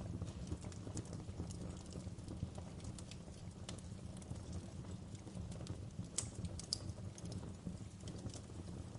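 Wood fire crackling in a fireplace: a low steady rumble of flames with scattered sharp snaps and pops from the burning logs, two louder pops coming close together about two-thirds of the way through.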